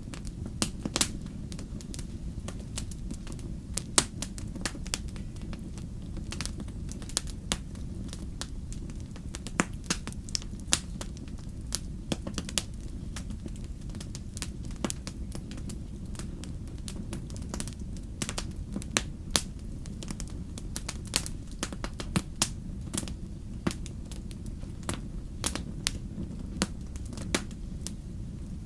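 Wood fire crackling in a fireplace: irregular sharp pops and snaps, several loud ones, over a steady low rumble.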